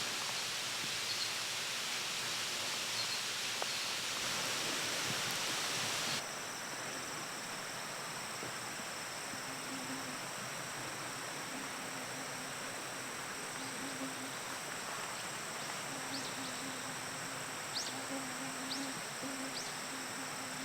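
Outdoor campsite ambience: a steady hiss, joined about six seconds in by a steady high insect drone, with a few short chirps near the end.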